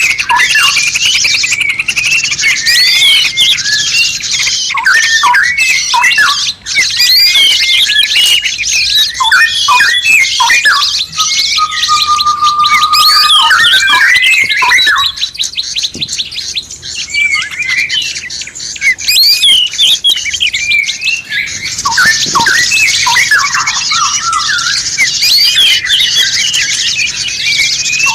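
Several songbirds singing at once, a dense tangle of quick chirps, trills and squawky notes. A single held whistle sounds just before the middle, and the song thins to rapid ticking notes for a few seconds before the full chorus returns.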